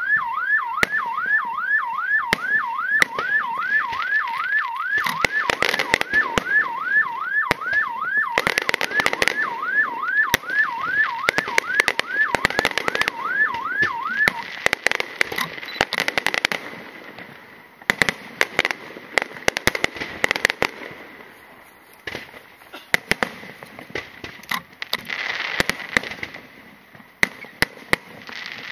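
Aerial fireworks going off in rapid volleys of bangs and crackles. Over the first half a car alarm sounds, a rising sweep repeating about two to three times a second, and it stops about halfway through.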